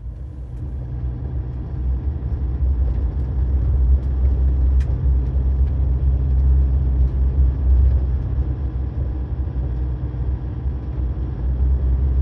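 A road vehicle driving: a steady low rumble of engine and road noise that builds over the first few seconds as it gets going, then holds steady.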